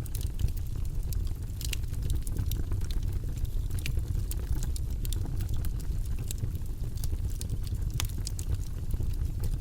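Campfire burning with a steady low rumble and frequent sharp crackles and pops from the burning wood.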